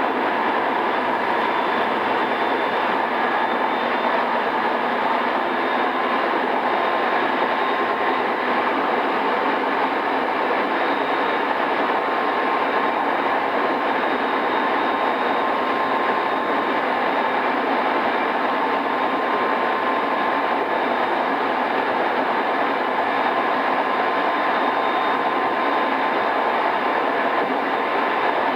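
JR East E217-series electric train, pre-renewal, heard from inside its motor car MoHa E217-2006 while running steadily along the line: an even rolling and motor noise with faint steady tones, dull in the top end from the cassette tape.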